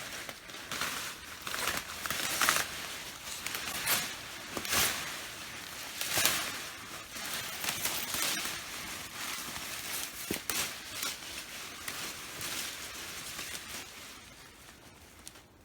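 Sweet potato vines and leaves rustling and crackling as they are pulled and handled, in irregular bursts that die down near the end.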